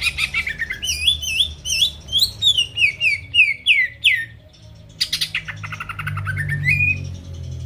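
Green leafbird (cucak ijo) singing loud and fast: a run of quick, curving whistled notes, then after a short pause a rapid rattling trill that rises into a clear whistle. A faint low hum runs underneath.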